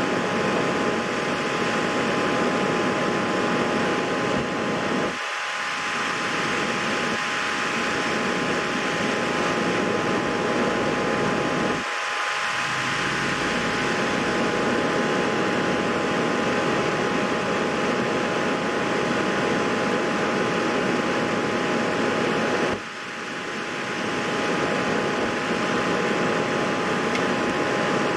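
Steady whirring fan noise with a constant faint whine, briefly dipping three times.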